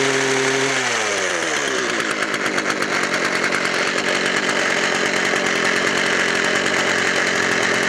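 A 25cc two-stroke hedge trimmer engine running. It comes down from high revs to a rough, rattly idle about a second in, then idles steadily.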